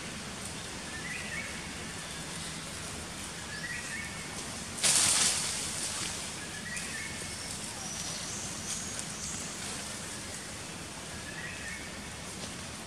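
Woodland ambience: a steady hiss with a bird repeating a short call every two to three seconds and a few higher chirps. About five seconds in, a sudden brief burst of rustling noise, the loudest sound.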